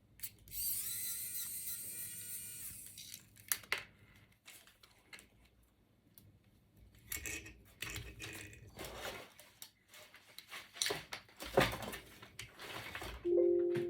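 A small electric motor whines for about two seconds, spinning up and then winding down, followed by scattered clicks and knocks of small parts being handled during disassembly of a 3D printer extruder.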